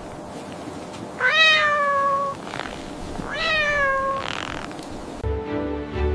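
A cat meowing twice, each meow about a second long, rising quickly in pitch and then trailing down. Music starts near the end.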